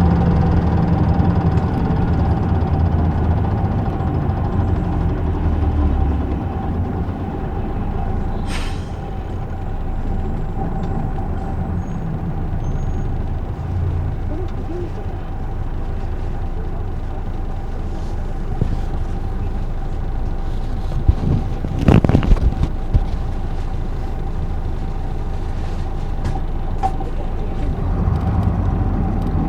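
Isuzu Erga city bus's straight-six diesel idling, heard from inside the cabin. A short, sharp hiss of air comes about eight seconds in, and a brief louder burst of air and knocks comes a little past twenty seconds in.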